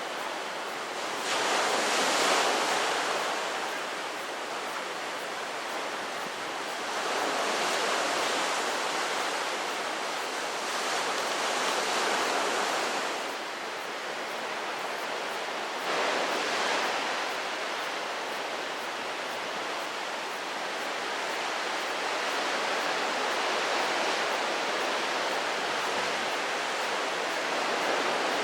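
Gusty typhoon wind rushing, swelling in several strong gusts and easing between them.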